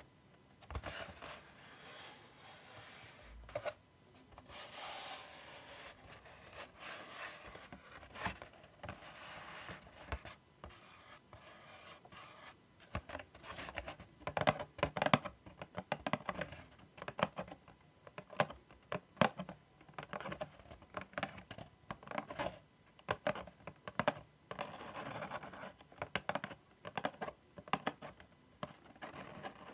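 ASMR scratching and rubbing on a surface, made of uneven scratchy strokes. From about halfway it turns to a run of quick, sharp taps and clicks.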